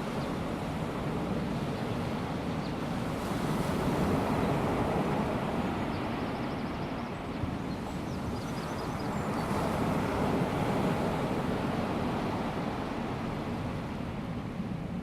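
Small waves of a calm sea breaking and washing on the beach, a steady wash of surf that swells twice.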